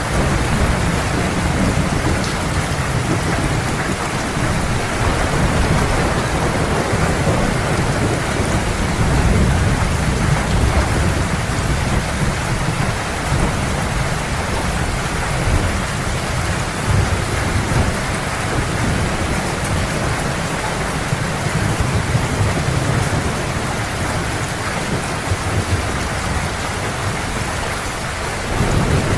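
Heavy rain falling steadily, with low rolling thunder rumbling underneath that swells and fades every few seconds.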